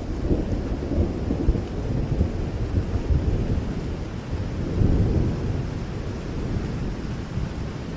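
Steady rain with low rolling thunder rumbling beneath it, swelling about five seconds in.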